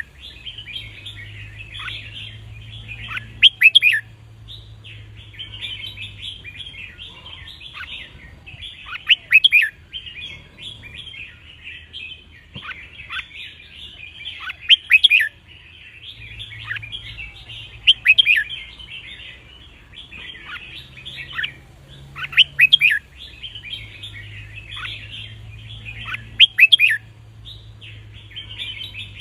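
Red-whiskered bulbuls singing: a constant chatter of chirps with loud, sharp song phrases breaking through every few seconds.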